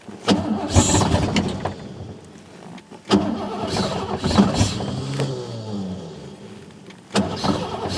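Ford F-150 plow truck engine cranked on ether three times. Each try starts suddenly and fades out again: a cold engine that will not start.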